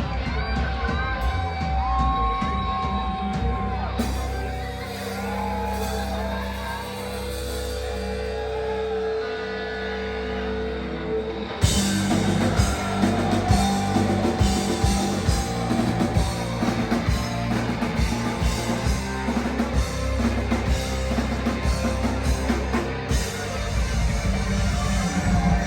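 Live rock band playing with electric guitars, bass and drums: held, bending guitar notes over a sustained backing, then about twelve seconds in the full band comes in louder with busy drumming and fast guitar playing.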